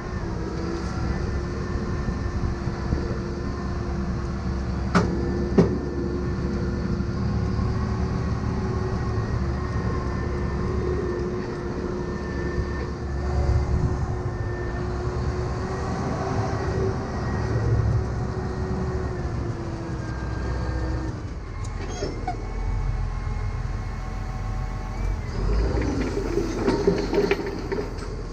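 Tractor towing a dump trailer laden with concrete rubble: the engine runs steadily under way with a steady whine, and the trailer rattles, with two sharp knocks about five seconds in. About three quarters of the way through, the whine drops away and the running turns lower and more uneven, with more knocks near the end.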